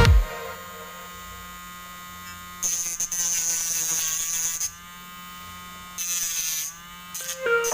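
A small electric motor runs with a steady whine. It gets louder twice, for about two seconds starting roughly two and a half seconds in and again briefly near the end, and its pitch sags at the end of each louder spell.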